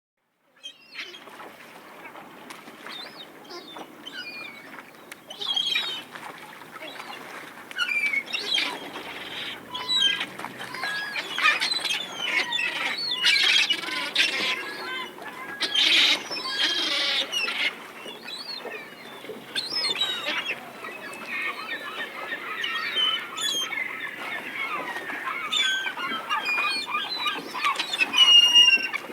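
A flock of birds calling all at once, a dense chorus of short overlapping honks and squawks that starts about a second in.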